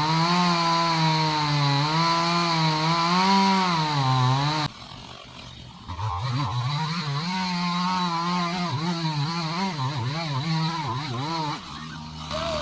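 Two-stroke chainsaw running at high revs, its pitch wavering as the chain bites into the wood of a dead tree. It falls away abruptly a little under five seconds in, comes back a second later with the revs rising and falling quickly, and drops off again near the end.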